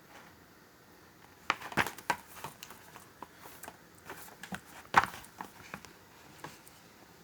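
A quiet room with a flurry of irregular small clicks and knocks, loudest twice, then fading out.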